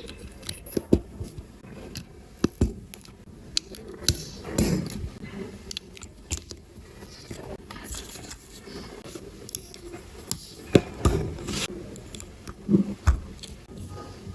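Plastic LEGO pieces being handled and pressed together: irregular small clicks and taps, with a few louder knocks in the last few seconds.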